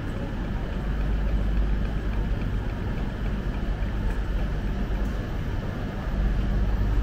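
Steady low hum of a Eurostar high-speed train standing idle at the platform.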